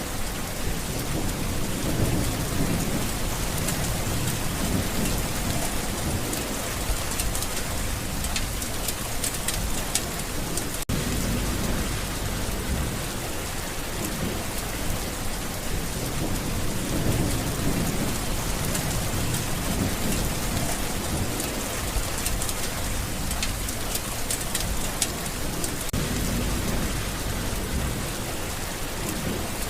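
Steady heavy rainfall hissing, with low thunder rumbling that swells and fades every few seconds. A momentary dropout about eleven seconds in.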